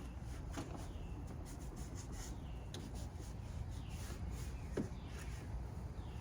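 Irregular scratchy rubbing and scraping strokes of hand-cleaning dust and grime out of an engine bay, over a steady low background rumble.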